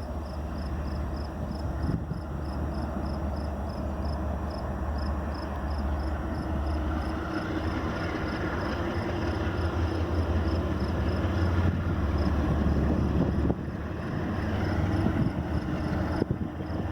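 Union Pacific intermodal freight train rumbling by, a steady low rumble that slowly grows louder.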